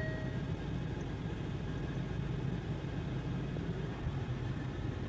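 Range Rover Evoque idling, a steady low hum heard from inside the cabin, with a short electronic beep from the dashboard that stops about half a second in.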